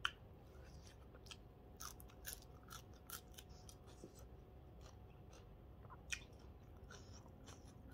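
Faint close-up chewing and crunching of raw fresh greens: a dozen or so short crisp crunches and mouth clicks at irregular intervals.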